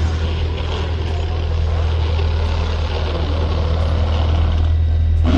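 Car engine running steadily, a loud, even low drone with road or wind noise over it.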